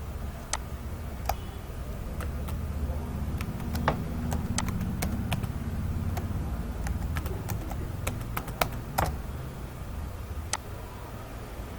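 Computer keyboard keys clicking in scattered, irregular strokes, with a quick cluster about eight seconds in, over a steady low hum.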